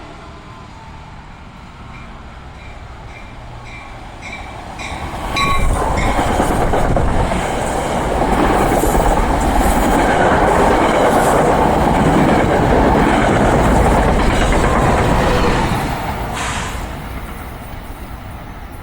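NJ Transit commuter train passing through the station at speed. A regular clicking about twice a second grows as it approaches, then a loud, steady rush of wheels on rail lasts about ten seconds and fades as it goes by.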